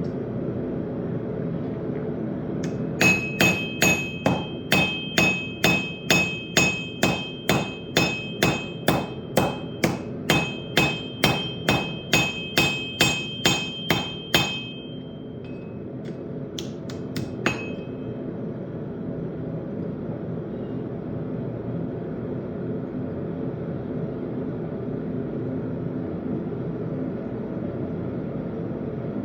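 Hammer blows on an anvil forging steel: about two ringing strikes a second for around eleven seconds, then a few lighter taps. A steady low roar runs underneath.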